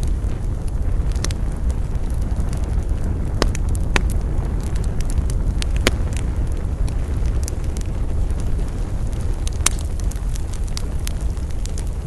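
Wood campfire burning, with a steady low rumble and scattered sharp crackles and pops, a few of them louder.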